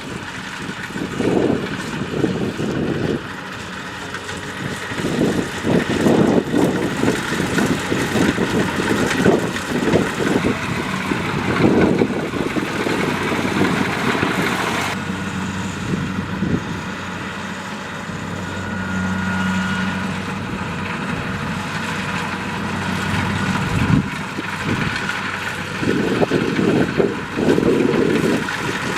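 Kubota DC-70 Plus combine harvester's diesel engine running continuously, its level rising and falling unevenly.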